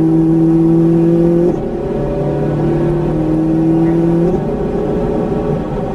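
Ferrari engine pulling hard under acceleration, its pitch climbing steadily. Two quick upshifts, about one and a half seconds in and again a little after four seconds, each drop the pitch before it climbs again.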